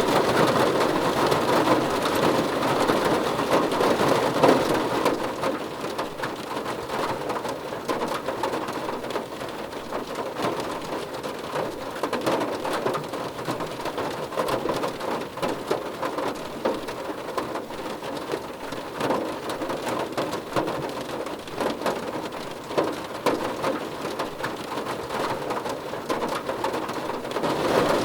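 Rain pattering on a car roof: a dense, steady drumming of drops, louder for the first few seconds, easing a little, then building again near the end.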